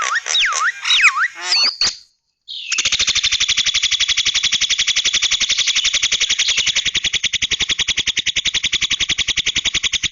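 Recorded bird song: looping whistles that glide down and up, a brief pause, then a long, even, rapid rattling trill of about ten notes a second that cuts off abruptly.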